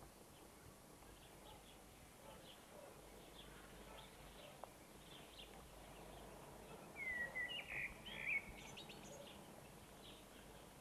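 Faint birds chirping over a low hiss, with a short louder run of calls about seven to eight and a half seconds in.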